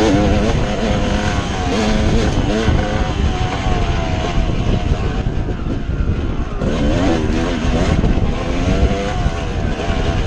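Dirt bike engine being ridden, its pitch rising and falling as the throttle opens and closes, over a constant low rumble. The engine note fades back around the middle and comes up strongly again about two-thirds of the way through.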